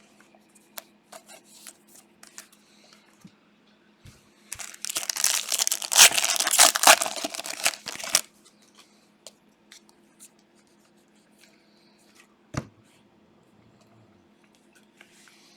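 A foil trading-card pack wrapper being torn open and crinkled for about three and a half seconds, beginning about four and a half seconds in. Faint ticks of cards being handled come before and after, with one sharp click near the end and a faint steady hum underneath.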